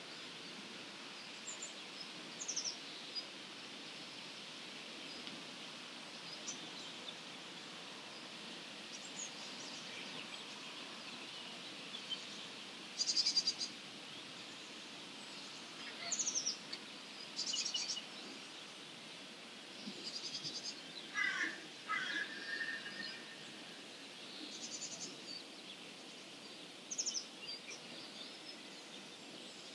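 Dawn chorus of wild birds: scattered short high chirps and buzzy, rattling phrases from several birds over a steady background hiss, with a brief lower, falling pair of calls about two-thirds of the way through.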